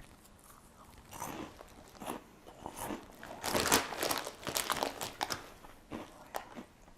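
A person chewing Cheetos Crunchy Nashville Hot close to the microphone: a run of irregular crunches, most intense in the middle.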